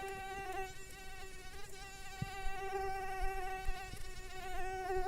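Mosquito buzzing: a steady, high whine of its wingbeats, one held tone with many overtones.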